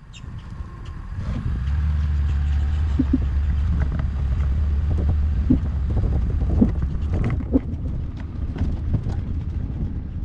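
Engine running with a low steady hum that builds about a second in and fades after about seven seconds, with scattered knocks over it.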